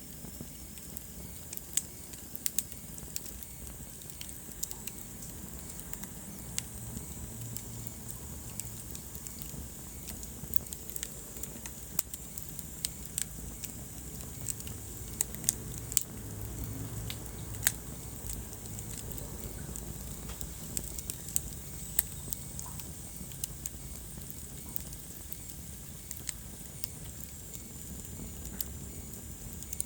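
Wood fire burning in a fireplace, with a low steady rumble of flames and irregular sharp pops and crackles from the burning logs.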